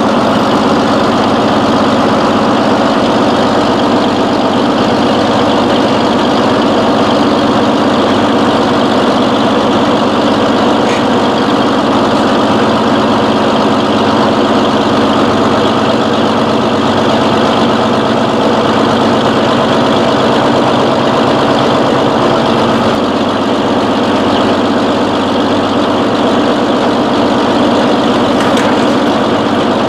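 Large engine running steadily at idle.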